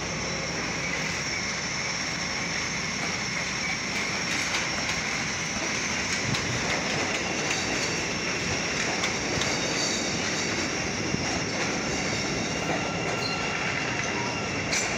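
CTA Bombardier 5000-series 'L' rail cars moving along the platform, a steady rolling rumble with high thin wheel squeal on the track.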